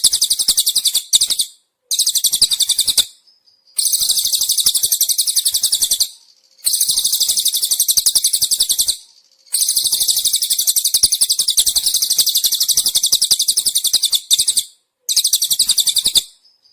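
Bird-training masteran recording of a cililin bird mixed with crickets: rapid, high-pitched pulsed trills in bursts of about one to five seconds, separated by short silent gaps.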